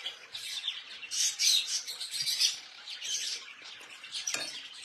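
Caged birds chirping in repeated short, high-pitched bursts.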